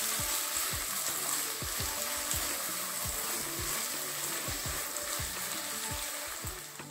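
Tomato and red chilli paste sizzling in hot oil in a nonstick kadai while it is stirred with a silicone spatula, under background music with a steady beat.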